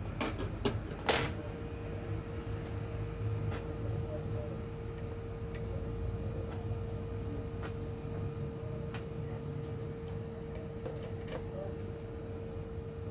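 Three sharp clicks, then a steady mid-pitched electronic tone that comes on about a second in and holds unchanged, over a low electrical hum.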